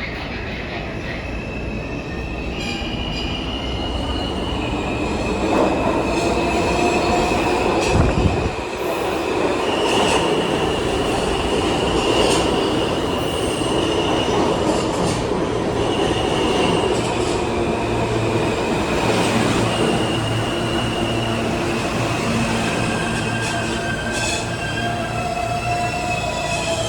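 R160 subway train running along the track with a continuous rumble, its steel wheels squealing in long high tones that come and go.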